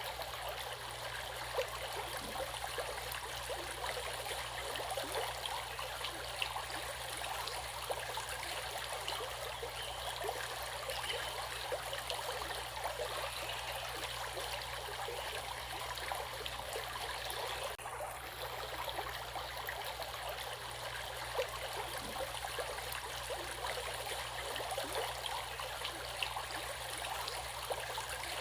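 Running water of a stream, a steady babbling rush.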